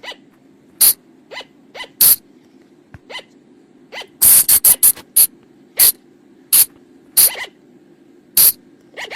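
Sunda colugo (flying lemur) calls: short, sharp cries repeated at irregular intervals, with a quick run of about five together about four seconds in, over a steady low hum. These are recorded calls played as a lure for colugos at night.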